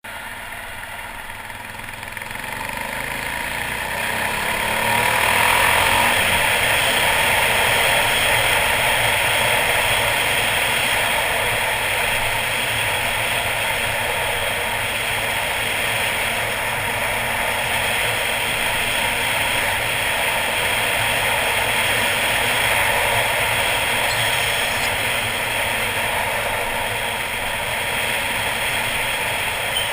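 Suzuki DR800's big single-cylinder engine accelerating over the first few seconds, then running steadily at speed under a steady rush of wind and road noise.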